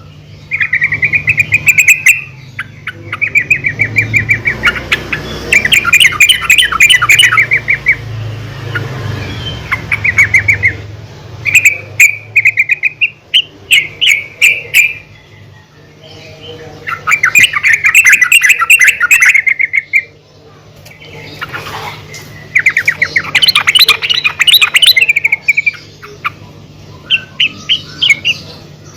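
Female yellow-vented bulbul (trucukan) calling: bursts of fast, chattering notes, each a second or two long, repeated with short pauses. A low hum runs underneath during the first half.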